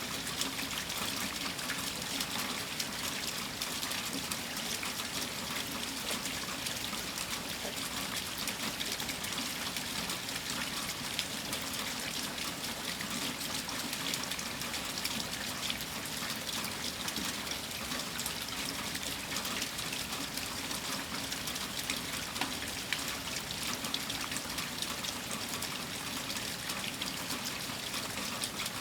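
Steady rain: an even hiss with a dense patter of individual drops and trickling water, unchanging throughout.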